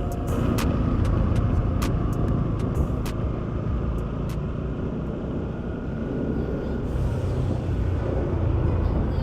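Bajaj Pulsar NS200 single-cylinder motorcycle riding along, a steady low engine and wind rumble with road noise, and a few sharp ticks in the first three seconds.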